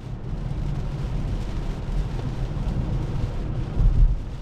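Steady low rumble of tyres on a wet highway and heavy rain on the car, heard from inside the cabin of an electric Tesla Model 3, with a louder low surge just before the end.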